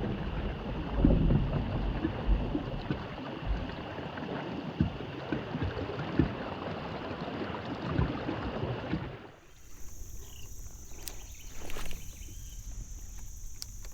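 Water rushing and splashing around a moving kayak, with irregular low bumps, for about nine seconds. It then cuts to a quieter bed of insects chirping steadily, with a few light clicks.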